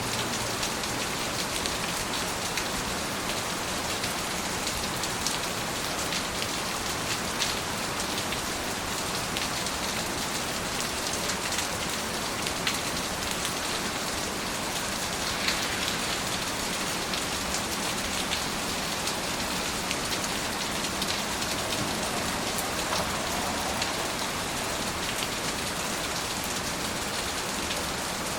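Steady rain falling on a surface: an even hiss dotted with the sharp ticks of individual drops.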